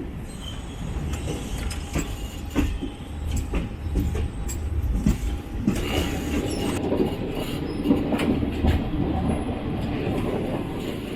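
Train wheels running on the track: a steady rumble with irregular knocks as the wheels cross rail joints and points, and a brief wheel squeal about six seconds in.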